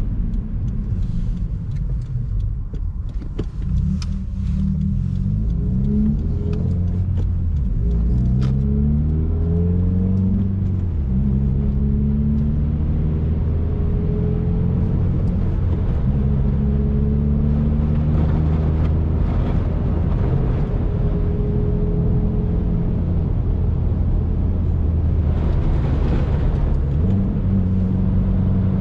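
2019 Subaru WRX's turbocharged flat-four engine pulling through the gears: its note climbs in pitch several times with drops between at the shifts, then settles into a steady cruise with slow rises in pitch.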